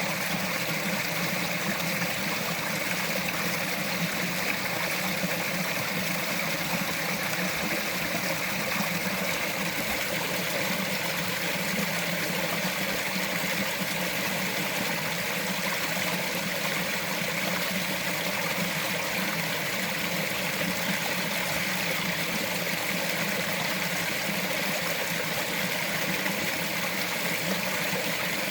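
A small mountain forest stream running over rocks: a steady babbling and trickling with no breaks.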